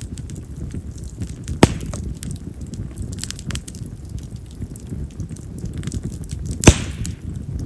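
Split wild mountain cherry (yamazakura) logs burning in an open fire: a steady low rumble of flame with frequent small crackles, and two loud, sharp pops, one about two seconds in and a louder one near the end.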